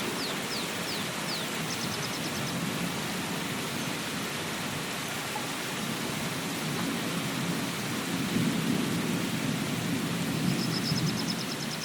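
Steady rain falling, with a low rumble of thunder swelling about two-thirds of the way through. Short, rapid high-pitched trills come twice, once early and once near the end, with a few quick falling chirps at the start.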